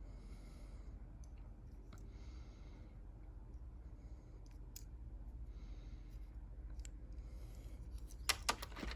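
Faint clicks and taps of a small diecast toy car being handled, with soft breaths through the nose between them. A quick cluster of louder clicks comes near the end.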